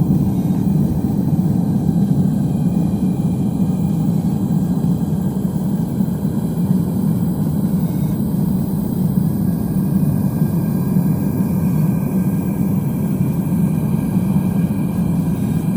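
Propane torch burner firing into a homemade furnace while it roasts ore: a steady, low-pitched rushing noise that does not change.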